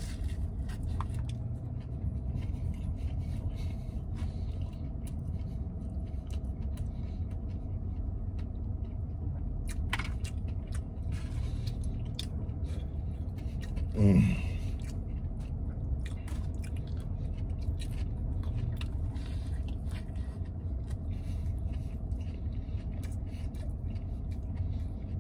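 A man biting into and chewing a sandwich with his mouth near the microphone, faint wet clicks and scrapes over a steady low rumble inside a vehicle cab. About halfway through comes one short low vocal sound, the loudest moment.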